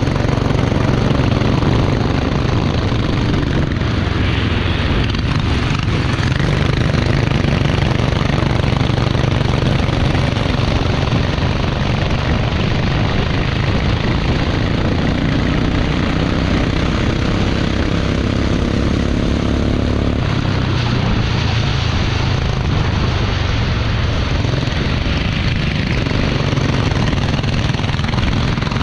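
Racing engine running continuously under load, its pitch moving with the revs and dropping about two-thirds of the way through.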